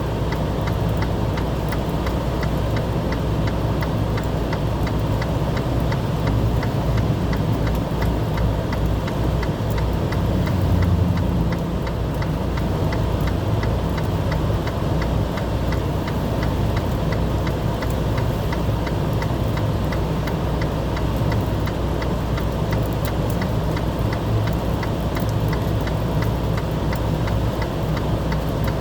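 Vehicle engine running steadily, with a fast, regular ticking over it.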